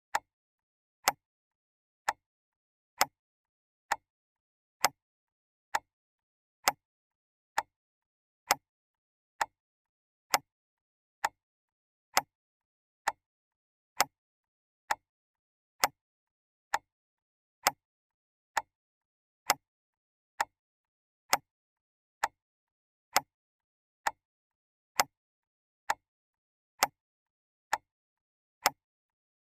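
Clock ticking steadily, one sharp tick a little under every second, with silence between the ticks.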